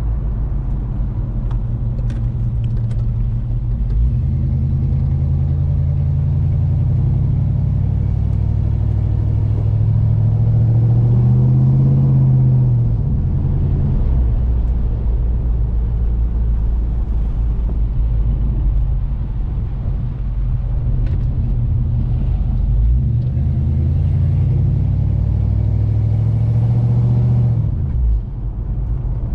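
Chevelle engine running through new 2.5-inch true-dual exhaust with single-chamber mufflers, heard from inside the cabin. The exhaust note climbs slowly in pitch under acceleration and drops sharply about 13 seconds in, then climbs again and drops sharply near the end.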